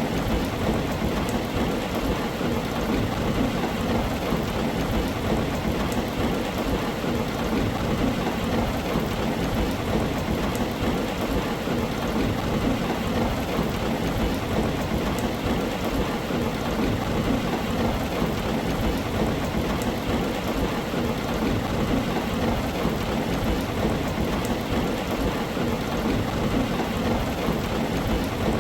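Heavy rain drumming steadily on a tin roof, with a steady low rumble of thunder underneath and faint patter of single drops on top.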